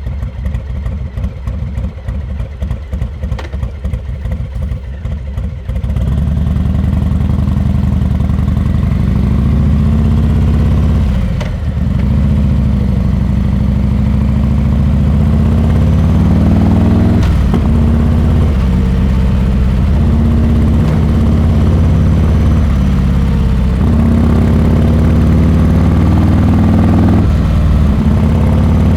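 Harley-Davidson Milwaukee-Eight 114 V-twin with Rinehart exhaust idling with an even, pulsing beat, then pulling away about six seconds in. It climbs in pitch under acceleration, with brief dips at each of about four gear changes.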